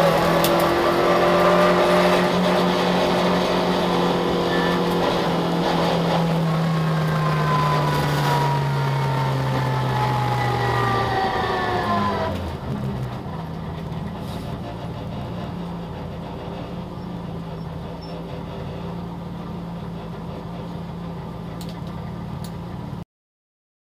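Citroën Saxo VTS rally car's 1.6-litre four-cylinder engine heard from inside the cabin, its note falling slowly as the engine speed winds down. About twelve seconds in it drops to a quieter, lower, steady running as the car rolls slowly on, then the sound cuts off abruptly near the end.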